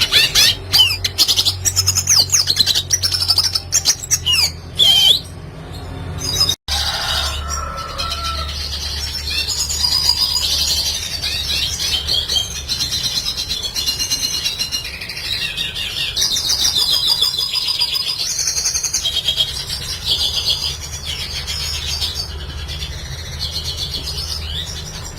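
Red siskin singing, a fast twittering song of sharp chirps and quick rising and falling notes, over a steady low hum. The song drops out for an instant about six seconds in, then runs on without a break.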